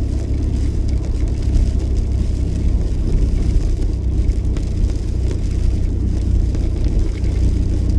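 Steady low rumble of a Jeep driving, heard from inside its cabin: engine and road noise with no change in pace.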